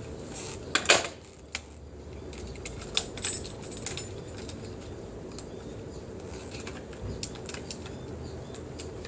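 A bunch of keys jangling, with scattered sharp clicks and knocks, the loudest about a second in. This fits the ignition key being handled before a cold start of a 1982 Honda XL500R whose engine is not yet running.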